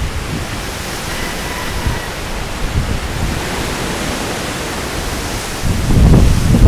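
Strong storm wind rushing steadily, then buffeting the microphone in a loud low rumble near the end.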